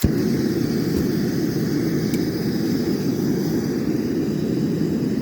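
Strong wind rushing and rumbling over the microphone, loud and steady, cutting in and out abruptly.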